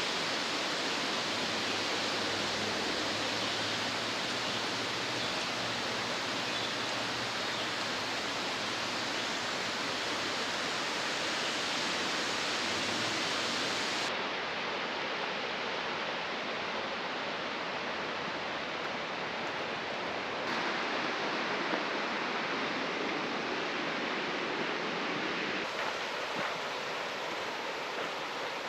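Steady rushing roar of a mountain waterfall on a creek, whose tone shifts abruptly about halfway through and again near the end as the recording changes.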